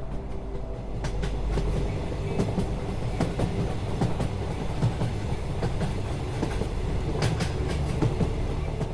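Train running on rails: a steady low rumble with irregular clacks of the wheels over the track.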